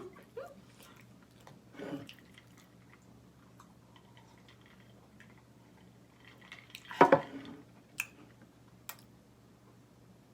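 A person chewing a mouthful of curry and rice close to the microphone, with wet mouth clicks. There is a louder short mouth sound about seven seconds in and sharp clicks shortly after.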